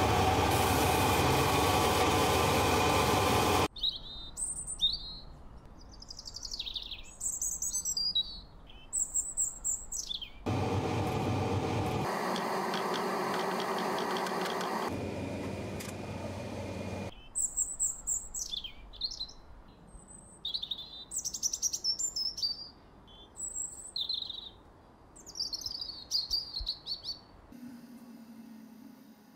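Small birds chirping and twittering in quick, short rising and falling calls, in two stretches, broken by two spells of loud steady rushing machine noise that start and stop abruptly.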